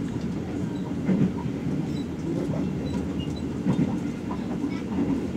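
Steady rumble and rattle of a moving passenger train, heard from inside the carriage.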